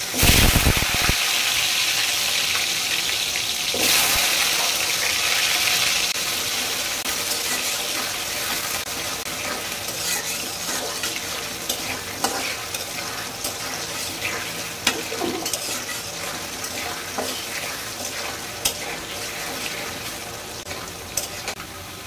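Potato pieces and jackfruit seeds frying in hot oil: the sizzling surges loudly as pieces go in at the start and surges again about four seconds in, then settles into steady sizzling that slowly fades. From about ten seconds on, a metal spatula scrapes and clicks against the pot as the pieces are turned.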